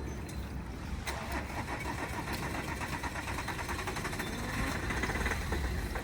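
A car's starter motor cranking the engine over in a fast, even rhythm for about four and a half seconds without it catching. A bystander warns that more cranking risks hydrolocking and killing the engine.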